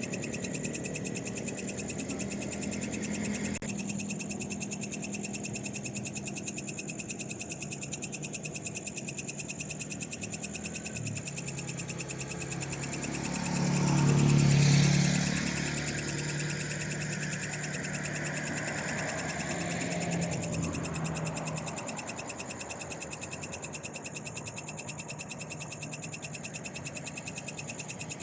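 Night chorus of frogs calling over a steady high trill. Midway a vehicle passes on the road: a low engine hum and tyre noise swell to the loudest point, then fade away over several seconds.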